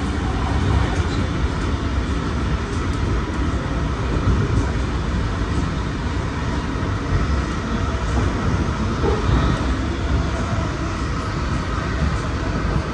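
Comeng V set intercity carriage running along the track, heard from inside: a steady rumble of wheels on rail with faint scattered clicks.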